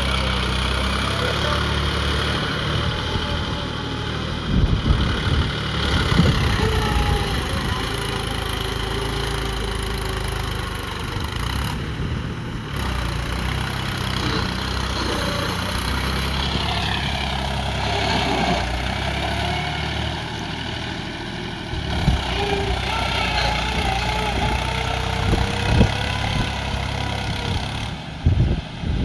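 Small engine of a home-built mini tractor running steadily, with a few short, louder knocks.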